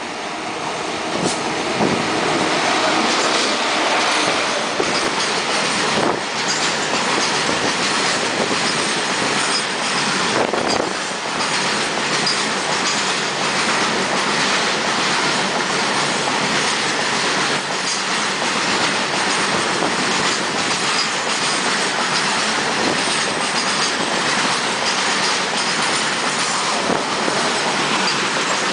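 Freight train of BCNHL covered wagons hauled by a WAG7 electric locomotive passing close at speed: a steady rush and rumble of wheels on rail with quick clickety-clack over the rail joints. It builds up over the first few seconds as the train arrives, then holds.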